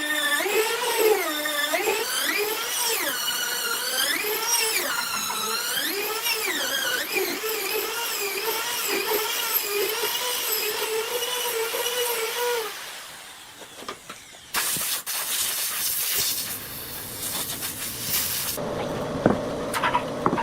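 A power tool whining, its pitch repeatedly dipping and recovering as it bites into the work, for about twelve seconds. After a short lull comes a stretch of noisy cutting, then a steadier whine near the end.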